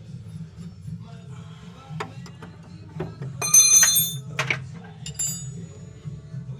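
Metal hand tools knocking and clinking on a car's steering column joint, with one loud ringing clang about three and a half seconds in and a shorter ring a little later.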